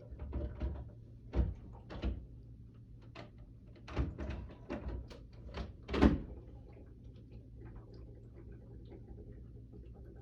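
Hard plastic parts of a humidifier knocking and clunking together as they are handled and fitted, with a string of clicks and knocks and one heavy thump about six seconds in, after which it goes quiet.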